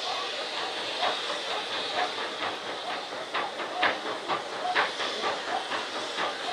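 Handmade set-piece fireworks spraying sparks: a steady rushing hiss with many irregular crackling pops.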